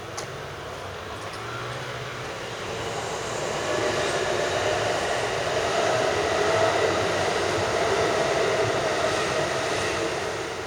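A train passing on the Kintetsu Kashihara Line: a steady rushing rumble that grows louder over the first few seconds, holds, then begins to fade near the end.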